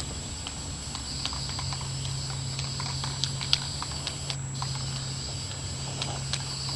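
Aerosol can of Rust-Oleum automotive gray primer spraying in a steady hiss, broken by a short pause about four and a half seconds in. Irregular light clicks are scattered through it.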